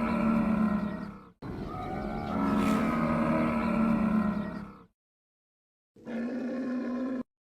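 A large animal giving long, pitched, moo-like bellows in three separate clips, each starting and stopping abruptly at edit cuts, with a short gap of silence before the last one.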